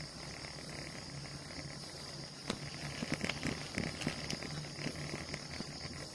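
Steady rushing noise of a bicycle ride, with a cluster of short clicks and rattles about midway.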